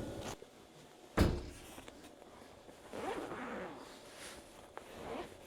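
A single sharp thump about a second in, followed by quieter rustling and handling sounds.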